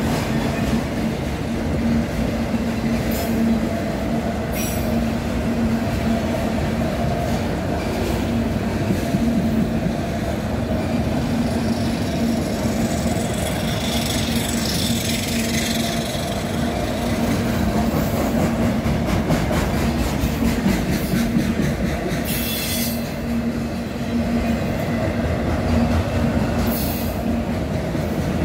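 Loaded CSX autorack freight cars rolling past at steady speed: a continuous rumble of steel wheels on rail with a steady low hum and a few sharp clanks.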